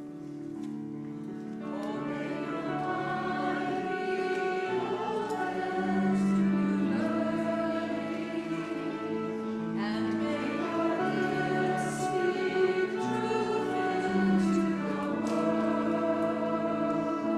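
A group of voices singing a song together with piano accompaniment. The piano plays alone at first, and the voices come in about two seconds in.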